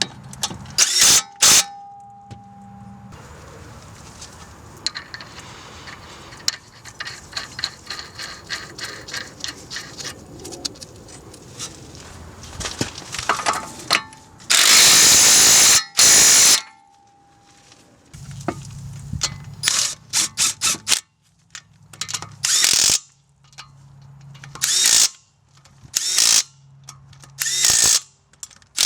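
Hand ratchet clicking rapidly for several seconds, then a cordless impact wrench running in one loud burst of about two seconds. Several shorter bursts follow as fasteners are run down and tightened during CV axle reassembly.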